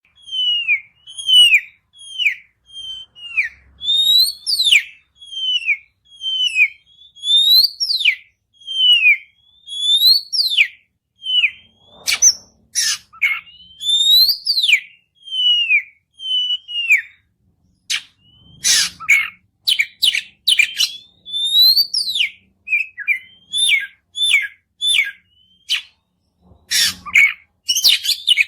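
Oriental magpie-robin (kacer) in continuous full song: clear whistled notes that each slide downward, repeated a little under once a second, with occasional quick rising sweeps. From about halfway the song grows more varied, with rapid up-sweeps and sharp, harsh notes.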